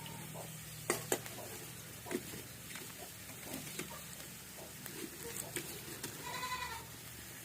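A goat bleats once, a short wavering high call about six seconds in, after a few sharp knocks and clicks near the start.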